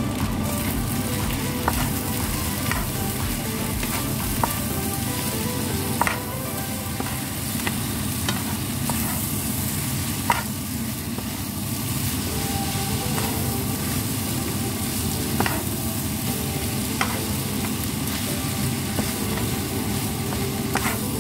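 Kimchi fried rice with beef sizzling in a hot pan as it is stirred and tossed to mix in the spicy sauce, with a sharp knock of the utensil against the pan every few seconds.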